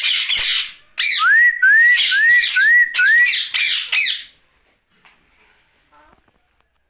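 Ringneck parakeet screeching harshly, then a run of five short rising whistles mixed with more screeches over about three seconds. It falls quiet for the last couple of seconds.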